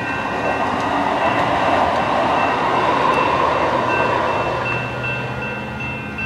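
A train passing over a grade crossing, its rushing rumble swelling through the middle and easing off near the end. The crossing-signal bells ring throughout.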